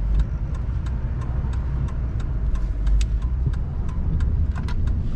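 A car driving, with a steady low road and engine rumble and scattered short sharp ticks over it.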